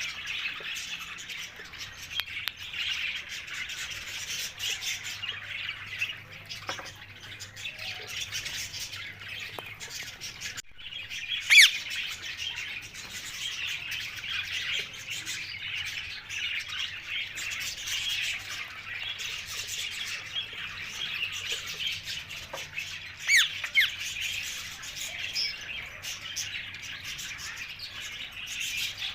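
Many birds chirping and chattering continuously, with two loud, sharp squawks, one about 11 seconds in and one about 23 seconds in.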